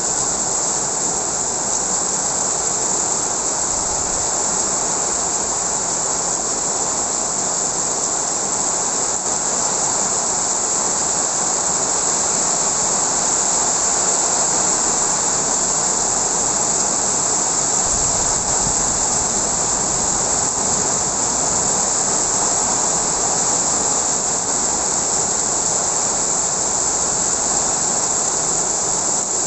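Heavy rain pouring steadily in a storm with strong wind: an unbroken rushing hiss.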